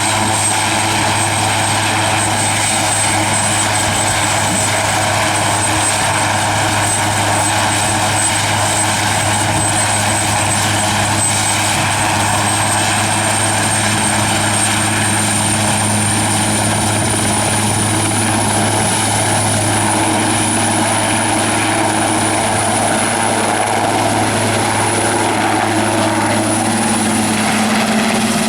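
Aérospatiale AS332L1 Super Puma helicopter running steadily, its twin turboshaft engines and rotors making a loud, even noise. A thin, high turbine whine rises slightly in pitch about halfway through and then holds.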